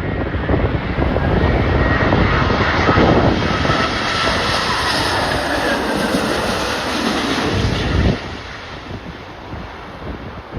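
Jet airliner's engines passing on landing approach, a loud rumble with a faint high whine, dropping away sharply about eight seconds in. Gusty wind buffets the microphone throughout.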